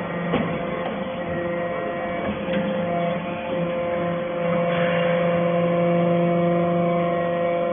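Steady electric-motor hum with a few clear overtones, typical of a baler's hydraulic power unit running.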